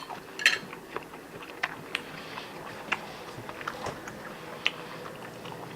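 Someone eating: scattered small clicks and taps, a dozen or so at irregular intervals, with chewing, over a faint steady room hum.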